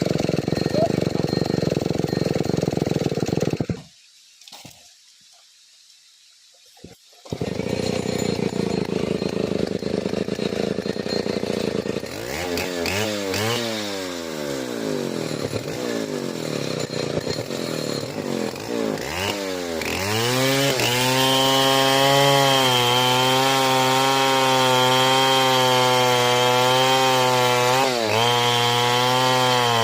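Large two-stroke chainsaw, a Stihl 070, running and cutting wood. It goes nearly quiet for a few seconds near the start, then its pitch rises and falls as it is revved. From about two-thirds of the way in it settles into a steady, high, buzzing note under load, dipping briefly near the end.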